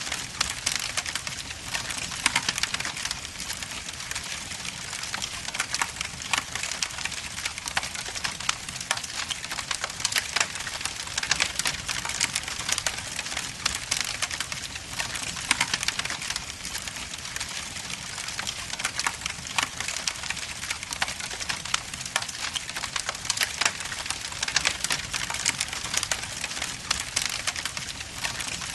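Wood logs burning in a fireplace, crackling and popping continually over a steady hiss of the flames.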